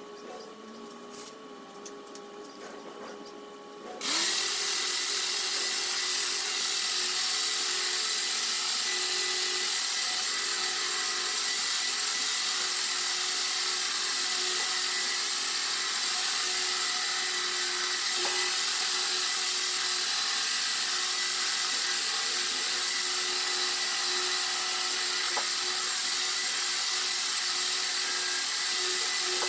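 A power sander starts about four seconds in and runs steadily through the sanding of the car body: an even hissing whir over a steady hum. Before it starts there is a quieter stretch with a few clicks.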